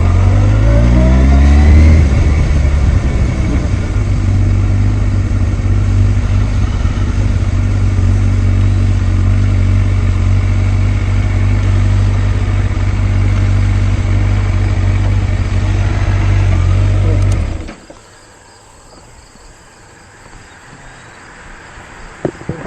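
Motorcycle engine heard from the bike itself: it rises in pitch as it accelerates over the first couple of seconds, then runs steadily, and cuts off abruptly about eighteen seconds in as the engine is shut off.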